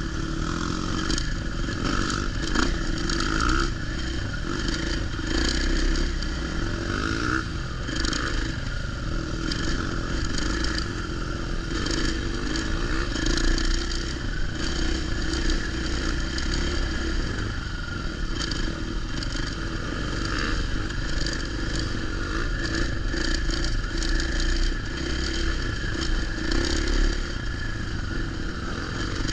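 Motocross dirt bike engine running steadily, with rattling and scraping over it throughout.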